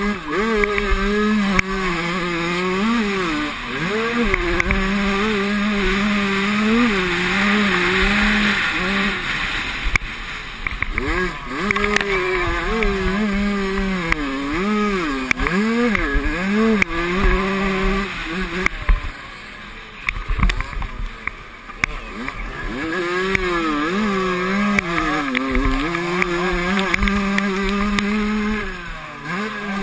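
Motocross motorcycle engines revving hard and backing off through the gears, the pitch rising and falling again and again, with a brief quieter lull about two-thirds of the way through.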